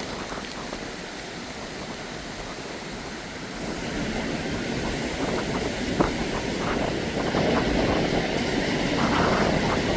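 Steady rushing noise of a valley stream's flowing water mixed with wind buffeting the microphone, growing louder about three and a half seconds in.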